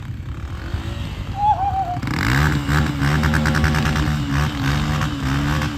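Dirt bike engine running low, then revving up about two seconds in and held at high revs, its pitch wavering.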